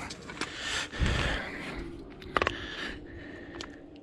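Hands fitting metal parts onto the axle shaft: a dull knock about a second in, a short ringing metal clink about halfway through, and a few light clicks. This is the washer and axle nut being put on by hand.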